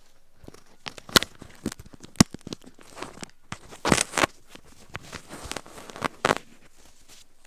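Ear pick scraping earwax inside an ear canal, heard very close up: irregular crackling scrapes and sharp clicks, the sharpest twice in the first few seconds, stopping near the end.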